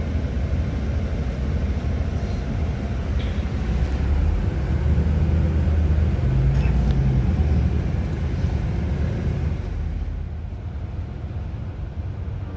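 Bus engine and road rumble heard from inside the bus: a steady low drone that grows louder about four seconds in, then eases off near the end.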